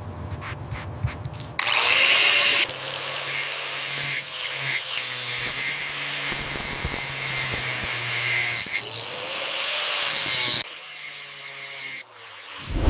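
A power tool runs loud and steady for about nine seconds, starting and stopping abruptly. A short thump comes right at the end.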